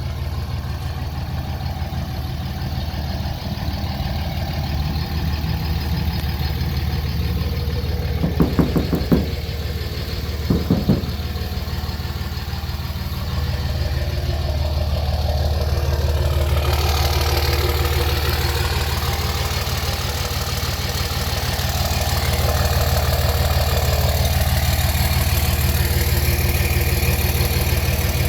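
5.9-litre Cummins high-output inline-six turbo diesel idling steadily, with a few short knocks about nine and eleven seconds in. The engine sound grows louder and brighter about halfway through.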